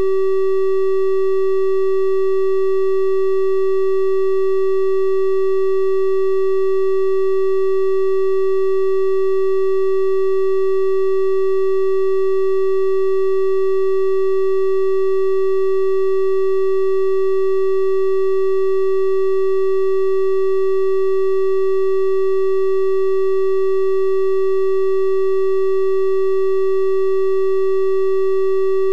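Synthesized 384 Hz triangle-wave tone, held perfectly steady: a pure hum with faint odd overtones above it.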